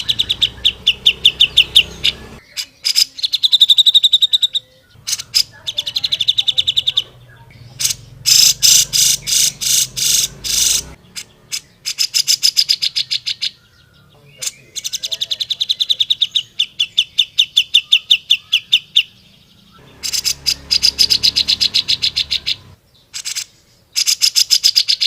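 Grey-cheeked bulbul (cucak jenggot) singing loudly in phrases of rapidly repeated sharp notes, each run lasting one to three seconds, with short pauses between.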